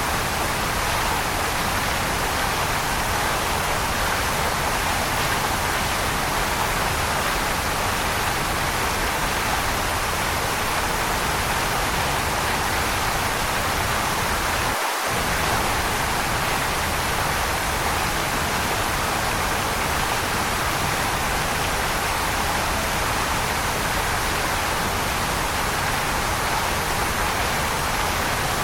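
Waterfall running steadily: an even, unbroken hiss of falling water, strongest in the middle-high range, with a momentary drop in the low end about halfway through.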